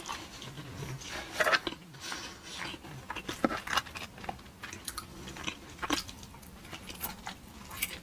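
Close-miked chewing and biting of crunchy fast food, with irregular sharp crunches and mouth clicks.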